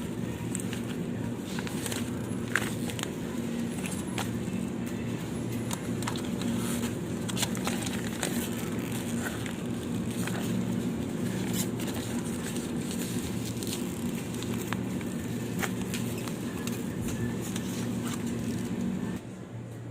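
Supermarket ambience: a steady low hum with many scattered clicks and rattles from handling and moving goods. It drops abruptly near the end.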